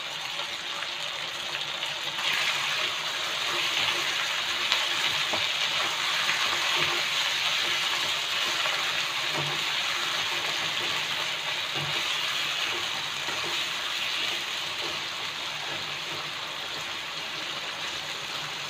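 Chicken pieces frying in oil in a nonstick wok: a steady sizzle that swells about two seconds in, with light knocks and scrapes of a spatula stirring.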